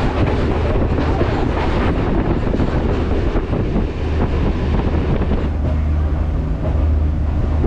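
Steady wind noise on the microphone at the open door of a moving passenger train, mixed with the train's running noise on the rails.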